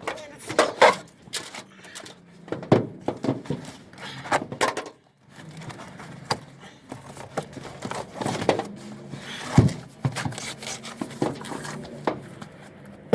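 Irregular knocks and clatter of metal bed rack parts and their packaging being handled and set down during unpacking.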